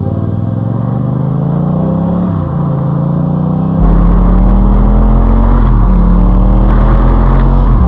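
Yamaha FZ-07's parallel-twin engine through an Akrapovic exhaust, accelerating while riding: the pitch climbs and drops back at each upshift, a few times. A loud low rumble joins suddenly about four seconds in.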